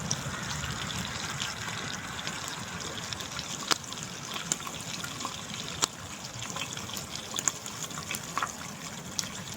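Mountain river flowing steadily, with a few sharp clicks scattered over the rushing water.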